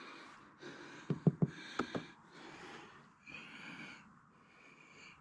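A person breathing in and out close to the microphone in several short, noisy breaths, with a few faint taps about a second in.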